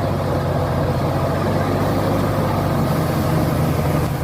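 A timber truck's engine running steadily, a low even hum with no change in pitch.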